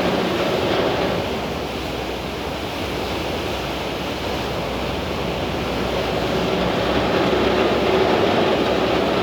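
Steady rush of water and wind from a Thames Clipper river catamaran under way, with a low engine hum underneath; it eases slightly a few seconds in and builds again near the end.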